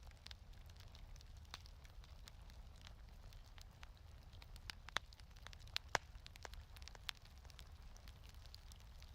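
Faint wood fire crackling in a fireplace: scattered sharp pops and snaps over a low steady rumble, with the loudest pops about five and six seconds in.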